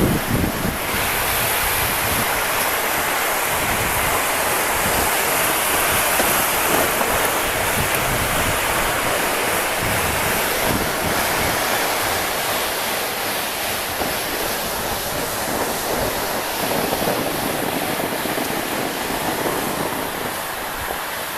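Wind buffeting the microphone, a steady loud rushing noise.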